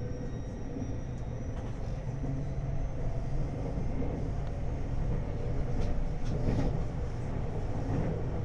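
JR 521 series electric multiple unit running at speed, heard from inside the car: a steady rumble of wheels on rail, with a faint high whine at first and a few sharp clicks about six seconds in.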